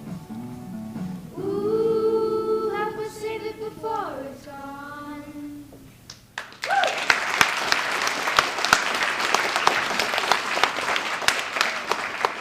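Children's choir singing the closing held notes of a song, which ends about six seconds in; then the audience breaks into applause that keeps going.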